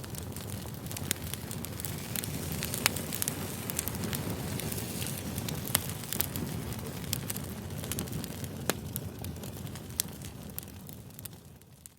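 Campfire crackling: a steady low hiss of burning wood with scattered sharp pops, fading out near the end.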